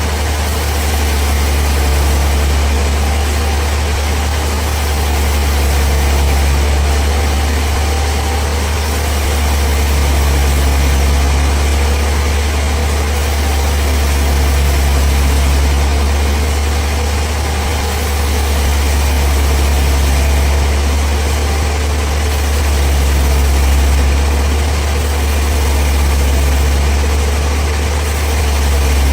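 Sawmill machinery running steadily: a loud, low engine-like drone that swells gently about every four seconds.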